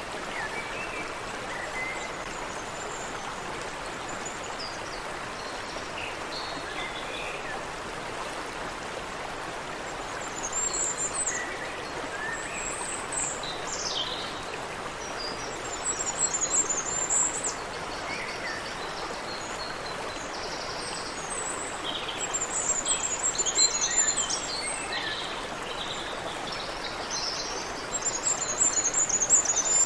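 Water running in a small stream, a steady rushing, with songbirds calling and chirping high above it in several bursts, the busiest about halfway through and near the end.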